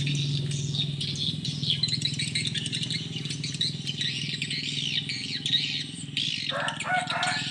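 Many swiftlets twittering at once: dense, high, rapid chirps overlapping continuously, over a steady low hum.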